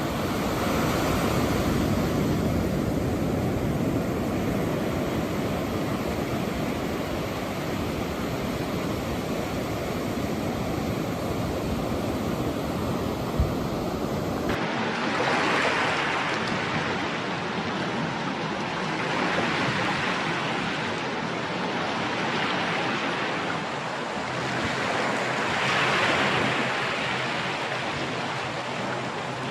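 Steady rushing noise like surf or wind with no voices. After a cut about halfway through it comes in swells every few seconds. A single sharp click comes shortly before the cut.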